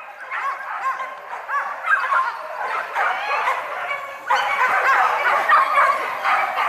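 A pack of wild boar hunting dogs yelping, with many high cries overlapping one another; it grows louder about four seconds in.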